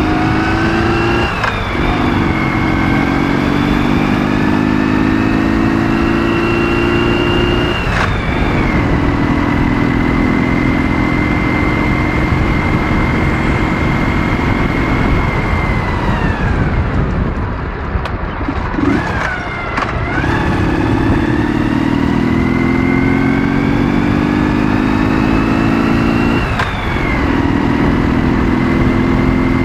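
Ural motorcycle's 650 cc flat-twin engine, heard while riding. It accelerates and shifts up a gear about a second in and again after several seconds, then holds a steady cruise. About halfway through the throttle closes and the engine winds down, nearly to idle, then pulls hard again with another upshift near the end.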